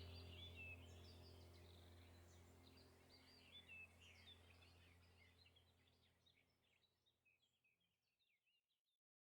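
Near silence: faint bird chirps over a low steady hum, fading out to total silence near the end.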